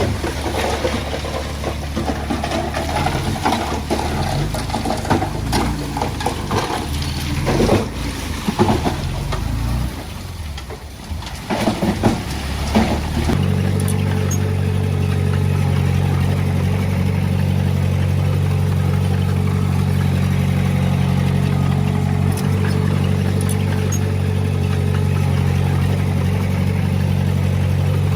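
Heavy-equipment diesel engine working under uneven load, with clattering knocks, for about the first half. It then switches abruptly to a steady, even running note.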